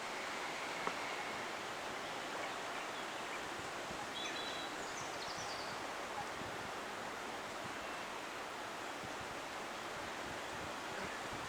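Steady outdoor background hiss, like wind or moving water, with a few faint bird chirps about four to five seconds in.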